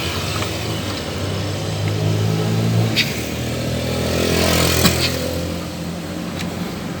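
A motor vehicle engine running with a steady low hum that swells in the middle and then eases off, with a couple of sharp clicks.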